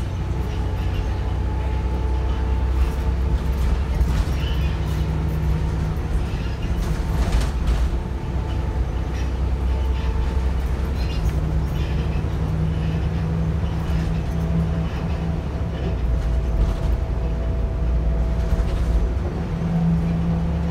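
Volvo B7RLE single-deck bus heard from inside while on the move: the engine runs steadily under scattered rattles and knocks from a worn, rattly bus body.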